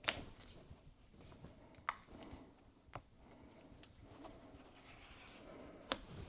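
Faint scraping and rubbing from hands and an opening tool working at the edge of an iMac's glass display, broken by four sharp clicks.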